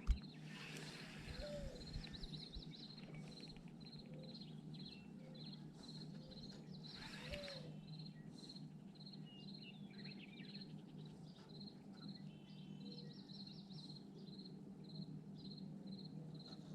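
Faint riverside ambience: a high chirp repeating steadily about twice a second, with scattered bird calls and a low steady hum. There is one sharp click right at the start.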